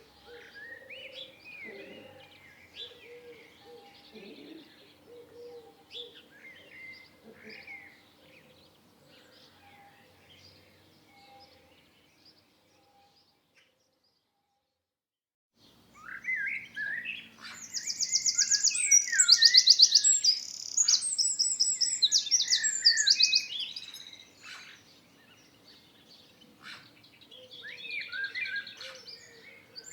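Several songbirds chirping and singing. The first part is quieter, with a low repeated note under the chirps. It cuts to dead silence for about three seconds midway, then comes back louder, with rapid high trills.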